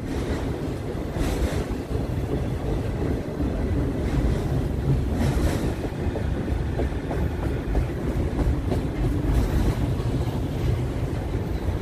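Freight train of autorack cars rolling past at close range: a steady rumble of steel wheels on the rails, with brief sharper rattles about a second and five seconds in. Wind is buffeting the microphone.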